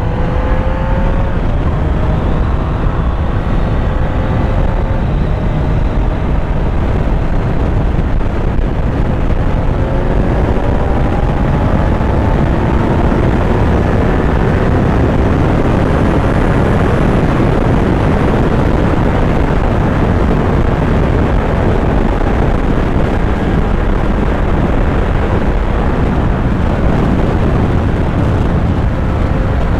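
Kawasaki Z900's inline-four engine running under way, its note rising gradually several times as it pulls, largely buried under steady heavy wind rush on the microphone.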